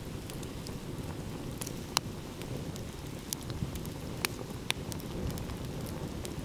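Wood campfire crackling, with scattered sharp pops, the loudest about two seconds in, over a low steady rush of sea waves.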